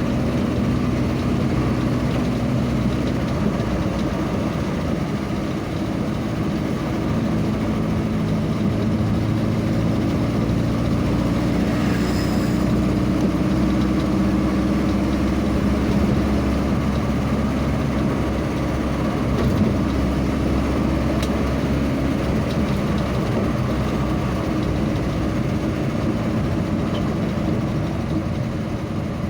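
A vehicle's engine running steadily under road noise, its note drifting slowly up and down with speed.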